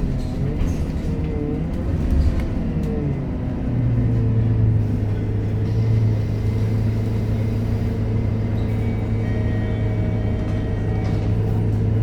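Scania K230UB Euro V city bus heard from onboard. Its drivetrain whine glides up and down in pitch for the first few seconds, then settles into a strong, steady low engine hum from about four seconds in.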